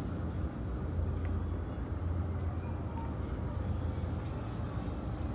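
Ferry engines running steadily under way, a low constant drone beneath an even rushing noise of the vessel moving through the water.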